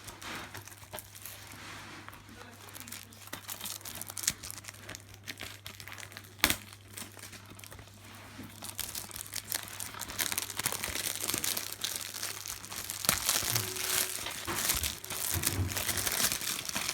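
Plastic shrink-wrap on a DVD case being crinkled and torn off by hand: continuous irregular crackling, with a single sharp click about six seconds in and busier crackling in the last few seconds.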